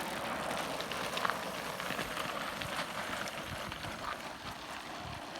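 Bicycle tyres rolling over rough ground: a steady gritty noise with small clicks that slowly fades.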